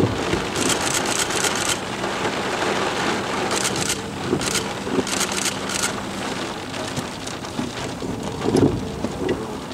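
Steady rain pattering, coming in heavier bursts over the first six seconds, with a low thump about eight and a half seconds in.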